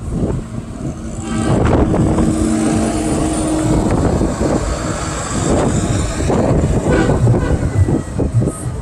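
Trucks driving past in a parade, engines running with a continuous rumble that swells and eases as they go by.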